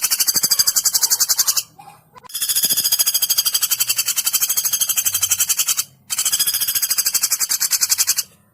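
Woodpecker calling in long, rapid, high-pitched rattling trills. One trill stops about a second and a half in, then two more follow after short gaps: one of about three and a half seconds, then one of about two seconds.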